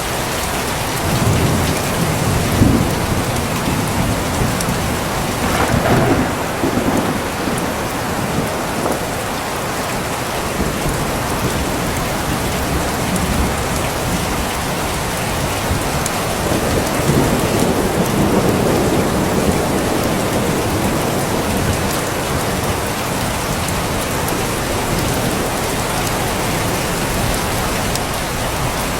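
Steady heavy rain falling, with low rolls of thunder rumbling under it about two seconds in, again around six seconds, and in a longer swell past the halfway point.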